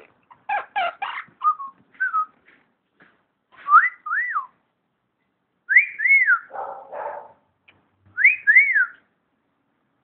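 Quaker parrot (monk parakeet) vocalising: a burst of short chattering calls, then whistling three pairs of clear notes that each rise and fall, with a lower garbled mumble after the middle pair.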